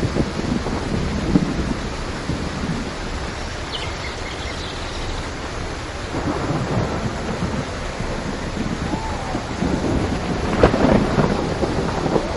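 Steady heavy rain with thunder rumbling underneath; the rumble swells louder near the end.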